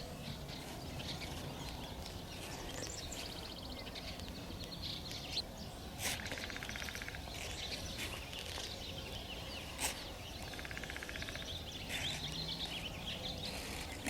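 Several wild birds singing and chirping, with a couple of short clicks about six and ten seconds in.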